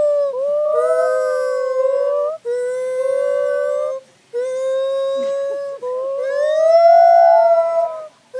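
A monkey screaming in a string of long, loud, sustained calls, about four in a row, each held for a second or two with brief breaks between. The pitch rises toward the end.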